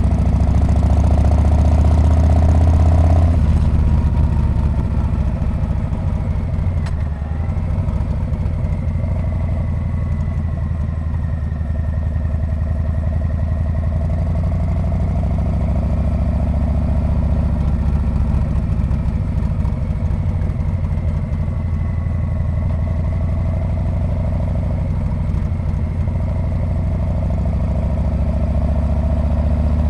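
Harley-Davidson Street Bob's V-twin engine and exhaust running on the move, louder for the first few seconds, then easing off and holding steady.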